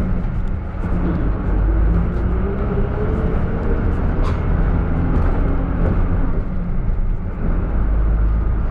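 Route minibus running with a steady low engine sound; a tone rises and then levels off from about a second in, and there is a short hiss near the middle.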